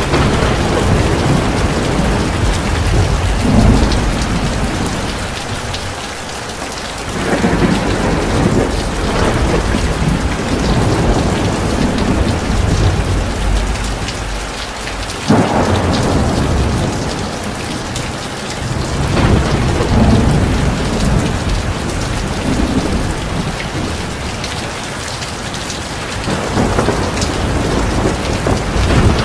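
Heavy rain pouring steadily, with rolling thunder swelling and fading in the low end, and a sudden sharper thunderclap about halfway through.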